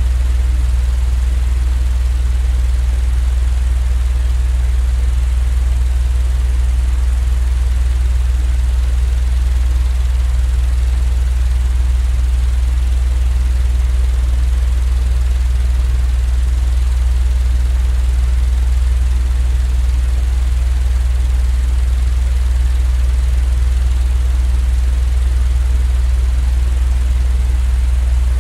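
Steady machine noise for sleep: a loud, unchanging low rumble with an even hiss over it, with no pauses or changes.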